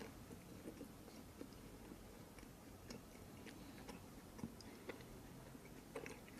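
Faint close-up chewing of a cookie: scattered soft crunches and small mouth clicks, a few at a time.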